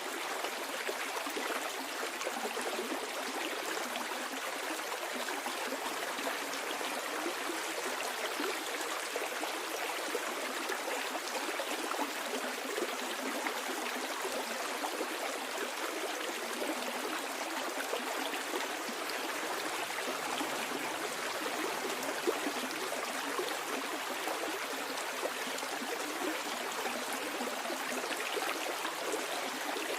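Stream water flowing and babbling downstream, a steady, even rush with no breaks.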